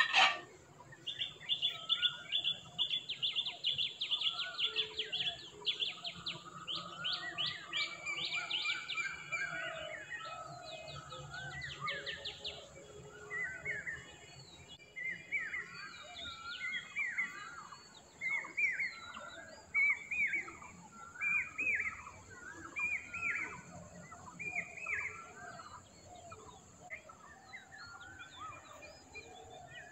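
Wild birds calling and chirping: rapid trilled chirps through the first dozen seconds, then a short call repeated about every second and a half through the middle, fading toward the end.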